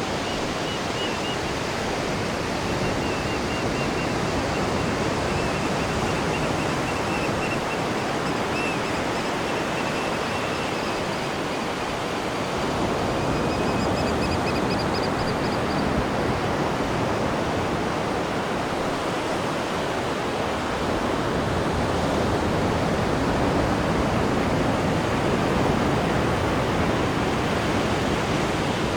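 Steady rushing and churning of seawater in a cruise ship's wake, heard from the stern. Faint thin high-pitched tones sound over it during the first half.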